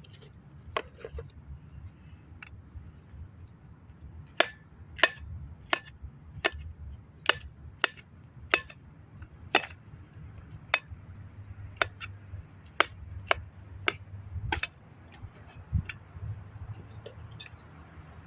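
A knife chopping food on a cutting board: a run of about fifteen sharp, evenly paced strokes, roughly one every two-thirds of a second, with a few lighter taps before and after.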